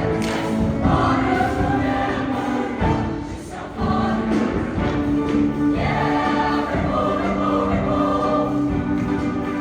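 Show choir singing in full harmony over a live band accompaniment, dipping briefly quieter about three seconds in before the full sound returns.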